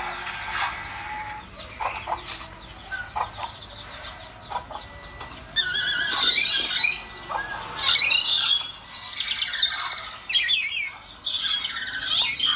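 Pet parrot squawking: scattered softer sounds at first, then from about halfway through a run of loud, harsh, repeated squawks.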